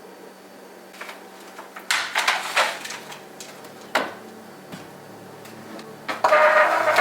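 Items being handled in a cabinet: scattered knocks and a brief clatter, then a louder, longer clatter of containers near the end.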